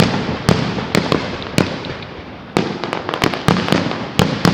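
Fireworks display: aerial shells bursting in quick, irregular succession, about a dozen sharp bangs over a continuous rumble of echoing reports.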